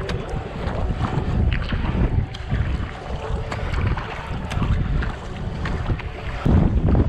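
Wind buffeting the microphone on a moving kayak, with water splashing and lapping against the hull in short, uneven crackles.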